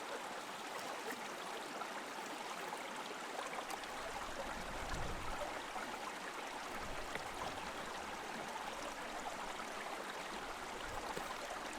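Water running through a shallow river rapid over rocks: a steady, even wash.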